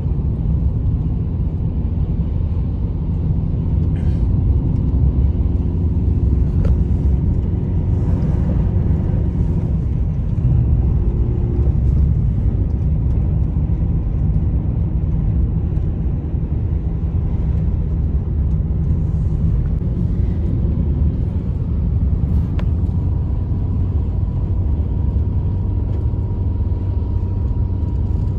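Loud, steady low rumble with a few faint clicks.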